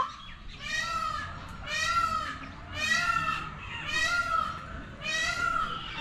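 A bird calling over and over: five nasal, honking calls about half a second each, rising and falling in pitch, repeated about once a second.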